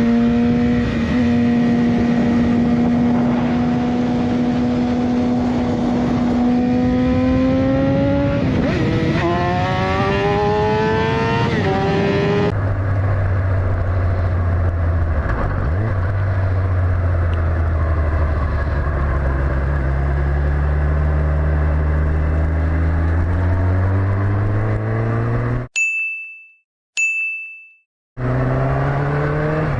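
Motorcycle engines accelerating: first a steady engine note that then climbs in pitch, then after an abrupt cut a deeper engine note rising and falling with the gear changes. Near the end the engine sound drops out and two short high beeps sound before it returns.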